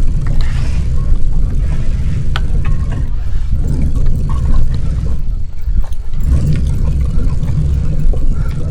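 Wind buffeting the microphone of a bicycle-mounted camera while riding, a loud steady low rumble with a few light clicks from the bike.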